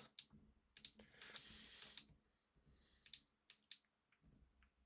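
Faint, irregular clicks of a computer mouse and keyboard keys being pressed, with a soft hiss between the clicks.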